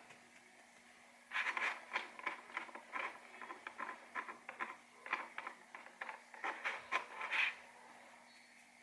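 An irregular run of short scratches and taps from hands working with small craft items, starting about a second in and stopping near the end.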